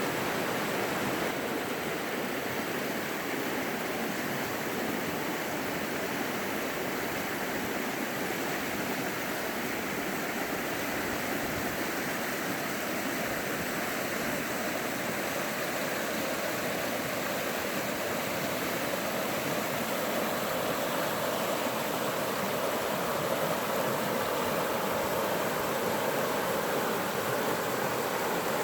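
Running water of a mountain stream, a steady, even flowing noise with no breaks.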